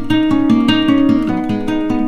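Background music: acoustic guitar picked and strummed in a quick, even rhythm, with no singing in this stretch.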